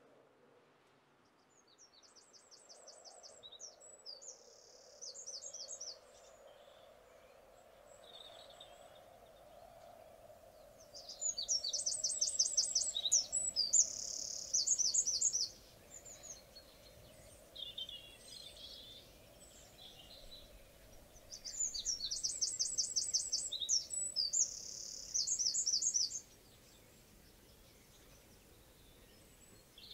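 A small songbird singing: three bouts of high, rapid trilled phrases, each a few seconds long, with pauses of several seconds between them.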